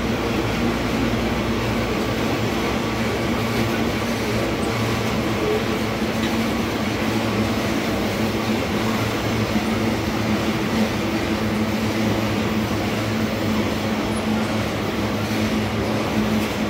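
Loaded iron-ore gondola wagons of a long freight train rolling past, a steady noise of steel wheels running on the rails.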